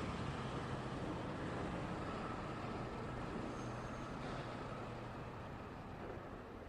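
Road traffic of cars and trucks passing, a steady rumble of engines and tyre noise that fades gradually toward the end. A brief faint high squeak sounds about halfway through.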